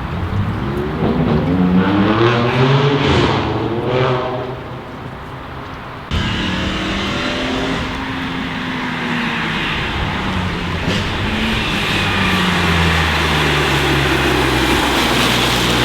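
BMW M3 G80 Competition's twin-turbo straight-six through an R44 Performance exhaust: two quick revs rise and fall in the first few seconds. After an abrupt cut, the engine runs at low, wavering revs, then climbs and grows louder near the end.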